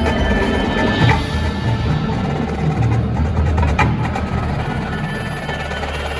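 Marching band playing: a busy percussion passage with drums and sharp clicks, about a second in and near four seconds, over held band chords.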